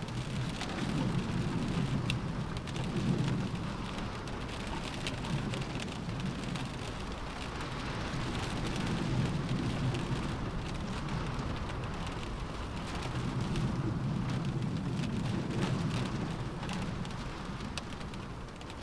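Steady rain on a window, with scattered sharp drop ticks, under a low rumble that swells and fades three times.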